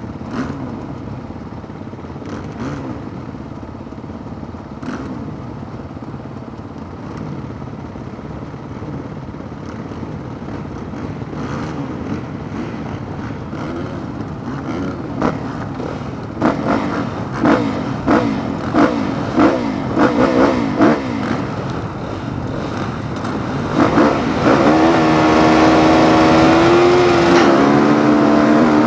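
Motocross bikes running on the track, their engines rising and falling in pitch as they rev through the gears. Past the middle comes a run of repeated sharp revving surges, and near the end one bike is close and loud, its pitch climbing as it accelerates.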